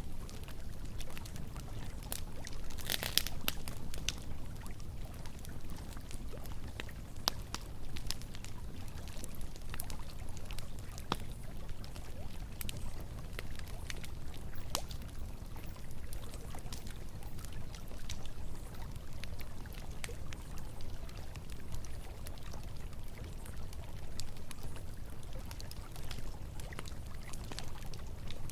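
Campfire crackling with scattered sharp pops, a small cluster of them about three seconds in, over a steady rush of flowing river water.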